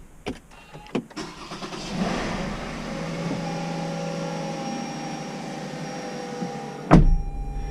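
Toyota Avalon's 3.5-litre 2GR-FE V6 starting without trouble and settling into a steady idle, after a few clicks at the start. Near the end there is one loud thump.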